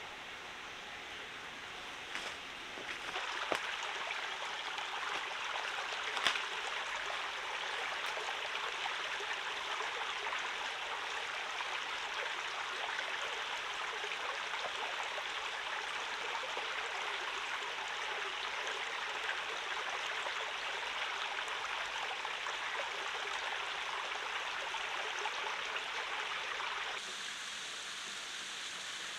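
Steady rush of flowing stream water, with a few sharp knocks in the first several seconds.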